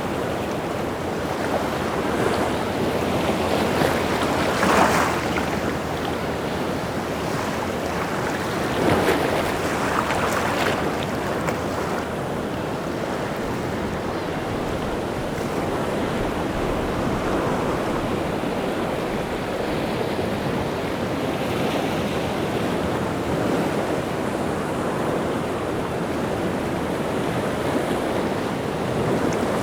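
Rough sea surf breaking continuously on the shore, a steady wash with two bigger waves breaking about five seconds and ten seconds in.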